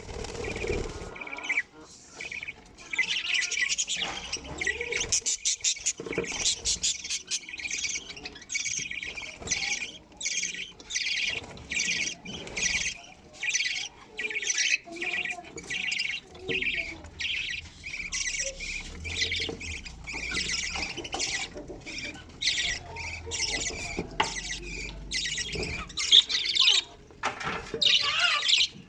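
Budgerigars calling: a long run of short, high cheeps repeated steadily, one to two a second.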